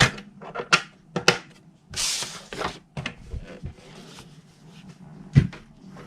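Cardstock being handled on a plastic scoring board after scoring: a quick run of clicks and taps, a short paper swish about two seconds in, and a single louder knock near the end.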